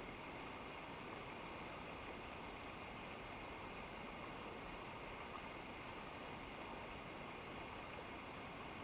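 Rushing water of a mountain river or waterfall: a steady, even rush with no breaks.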